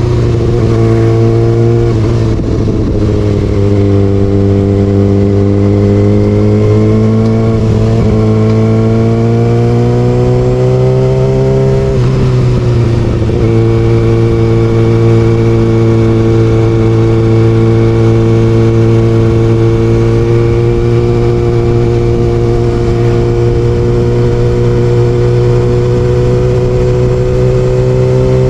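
Kawasaki ZX6R inline-four through an Austin Racing aftermarket exhaust, running under way. Its pitch climbs slowly, with short dips about 2, 8 and 12 seconds in, then holds steady through the second half.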